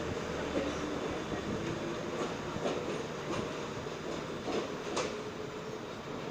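R46 subway train running along the track, its wheels clicking now and then over rail joints, slowly getting quieter.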